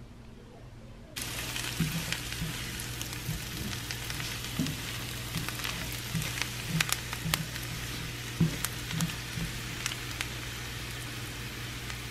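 Potatoes frying in oil and bacon fat in a cast iron skillet, sizzling with scattered sharp crackles and pops, starting suddenly about a second in over a low steady hum.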